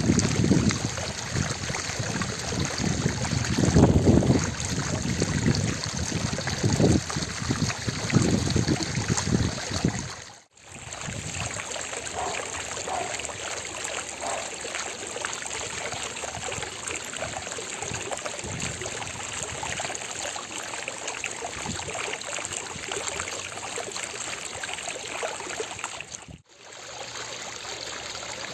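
Water fountain splashing and trickling in a steady rush of falling water, with louder, uneven low surges during the first ten seconds. The sound drops out briefly twice, about ten seconds in and near the end.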